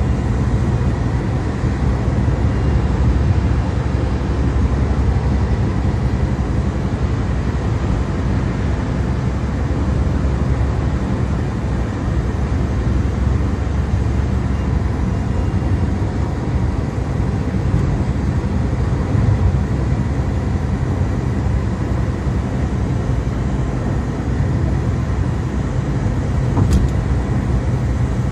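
Steady low rumble of a car driving, heard from inside: road and engine noise, with a faint tick about two seconds before the end.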